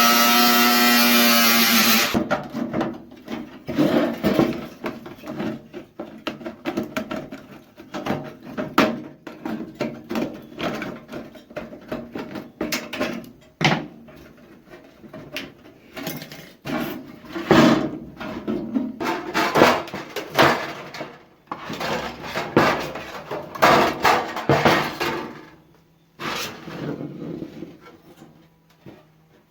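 Background music for about the first two seconds, cutting off abruptly; then irregular knocks, clanks and scrapes of a sheet-metal 18-litre can being handled and worked with hand tools.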